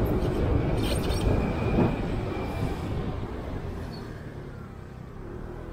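Low, steady rumble of road traffic and movement through city streets, easing off after about three seconds, with a short hiss about a second in.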